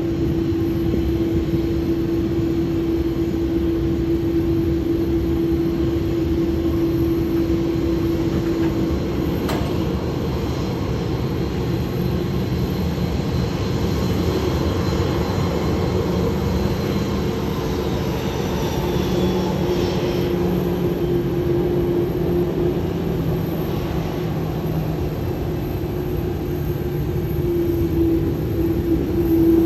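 Airliner's jet engines running with a steady rumble and a steady hum, and a higher whine that falls in pitch about two-thirds of the way through.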